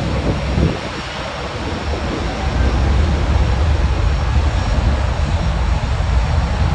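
Pratt & Whitney PW4000 turbofan engines of a Boeing 777-200ER running, a heavy low rumble with a jet rush above it that grows louder a little over two seconds in. The uploader finds this engine sound somehow different from the usual PW4000.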